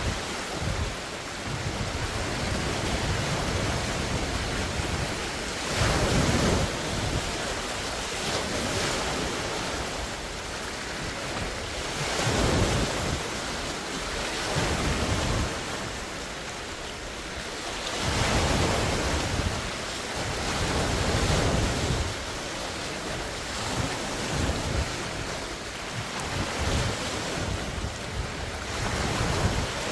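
Large wind-driven lake waves breaking and washing ashore, surging every few seconds, with strong wind buffeting the microphone.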